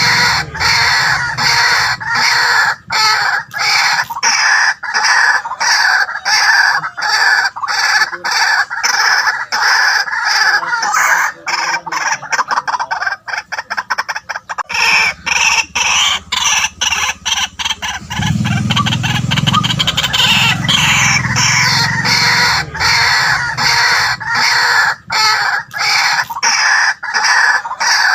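White-breasted waterhen calling loudly and without letup, a long run of short repeated notes in quick succession with brief breaks between them.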